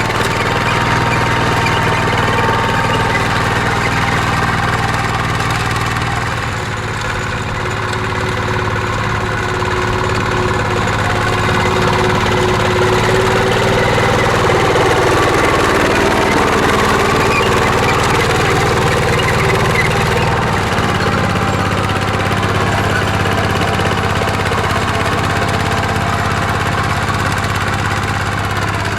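Mini tractor's engine running steadily while plowing a field, with its pitch shifting slightly a couple of times as the load changes.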